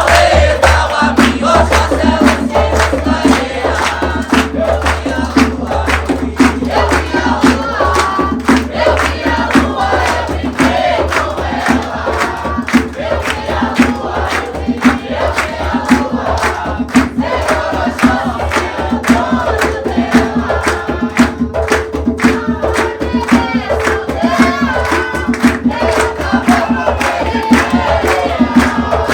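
Umbanda ritual music: hand drums (atabaques) beat a fast, steady rhythm while a group of voices chants a ponto for Oxóssi.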